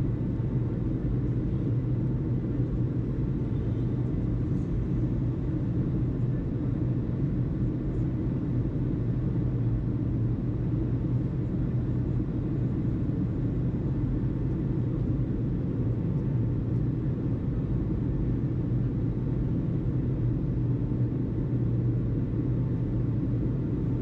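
A steady low rumble with no changes, the background of an airport listening recording between tower radio transmissions.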